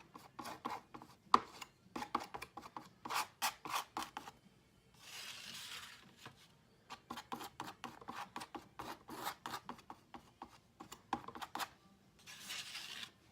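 Palette knife scraping paint around the edges in many short strokes, in changing directions, with two longer, smoother drags, one midway and one near the end. A sharp tap of the knife about a second in.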